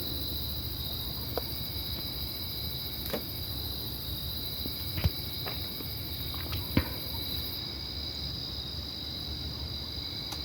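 Crickets trilling steadily and high-pitched, over a low hum, with a few short sharp clicks scattered through it; the loudest clicks come about five and about seven seconds in.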